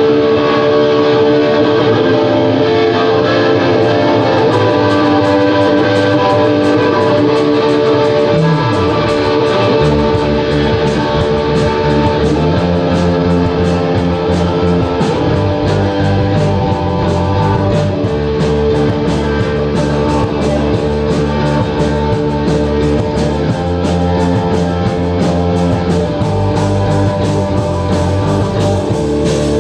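Live band playing a rock song led by electric guitar. Bass and drums fill in the low end about ten seconds in, and the beat runs on steadily.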